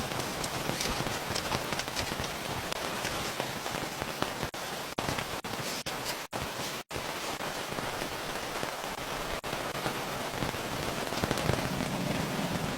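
Steady rain falling, with many separate drop hits heard through it. The sound cuts out for an instant several times around the middle.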